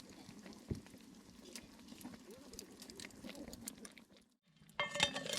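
Wood fire crackling, with scattered sharp pops over a low background. After a short gap near the end comes a louder burst of clicks and clatter.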